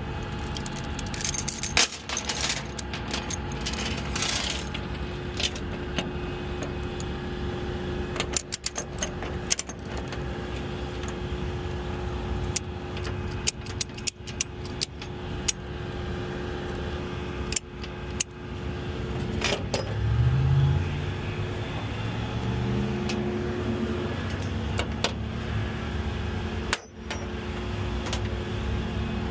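Tow truck engine idling steadily under scattered metallic clinks and rattles. About 20 seconds in, the engine speeds up, rising in pitch for a few seconds, then settles back.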